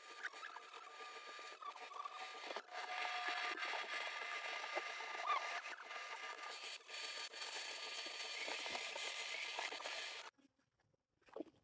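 Dense buzzing of a mass of honey bees, a steady hum that cuts off suddenly about ten seconds in.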